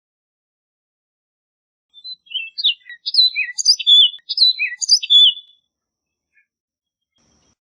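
Orchard oriole singing one rapid phrase of short, varied whistled and slurred notes, some rising and some falling. It starts about two seconds in and lasts about three and a half seconds.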